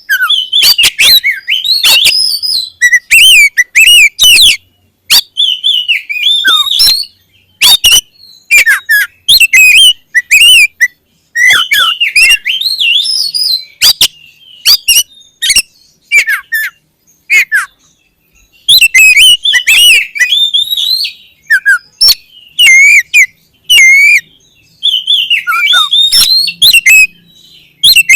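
Oriental magpie-robin (kacer) singing loudly in full song: rapid bursts of varied whistles and sharp notes, broken by short pauses.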